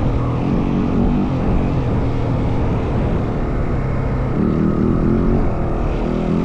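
Yamaha WR450F dirt bike's single-cylinder four-stroke engine running while riding, its pitch rising and falling with the throttle, over a low rumble of wind on the microphone.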